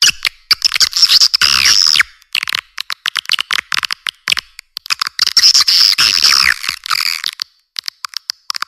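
Swiftlets calling: two dense bursts of high, gliding twittering chirps, each about two to three seconds long, with scattered sharp clicks in the gaps between them.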